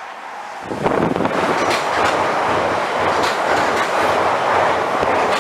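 A Class 455 electric multiple unit passing close by: a loud, steady rush of wheels on rail that builds up sharply about a second in, with repeated clickety-clack of the wheels over rail joints.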